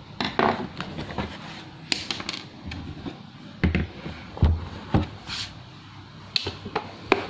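Scattered clicks and knocks of a laptop and its parts being handled during reassembly, with a couple of heavier thumps near the middle.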